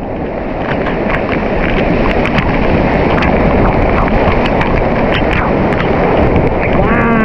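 Waterfall pouring and splashing onto rocks, a loud steady rush with small sharp splashes scattered through it.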